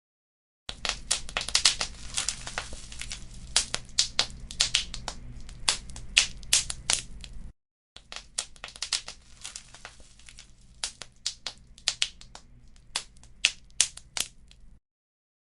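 Wood fire crackling, with dense sharp pops and snaps from the burning embers over a low rumble of flame. The sound cuts out to total silence for a moment at the start, about halfway, and near the end.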